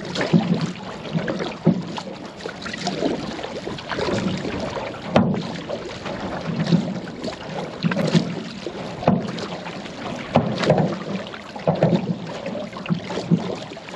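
Paddle strokes working a 17-foot aluminum Alumicraft canoe through shallow water: splashes and sharp knocks about once a second.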